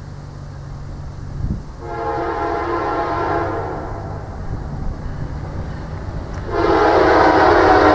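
Diesel locomotive's air horn sounding two long blasts, the second one louder, over the low rumble of an approaching train.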